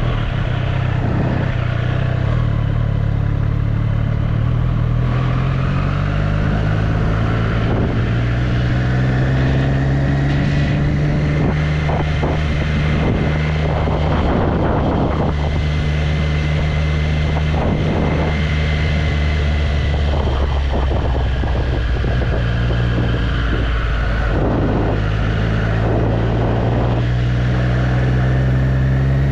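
Triumph Street Triple's three-cylinder engine running at low, fairly steady revs on the move. The engine note climbs slowly over several seconds a few seconds in, then holds, with patches of wind and road noise.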